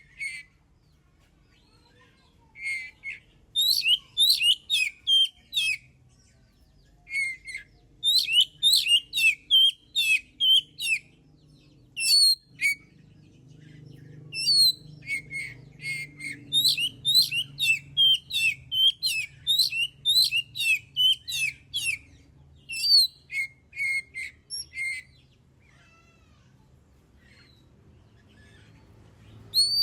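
Oriental magpie-robin (kacer) in vigorous full song: rapid runs of high whistled and chattering notes in phrases of a few seconds, broken by short pauses, with a longer pause near the end.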